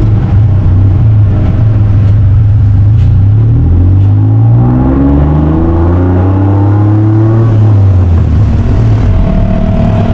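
Car engine running steadily, then revving up with a rising pitch from about four seconds in and dropping back just before the end.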